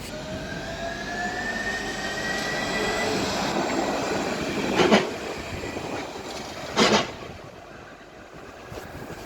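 Rail vehicle running on the track, with a whine rising slowly in pitch over the first few seconds. Two sharp clacks of wheels over rail joints or points come about two seconds apart, and then the running noise fades.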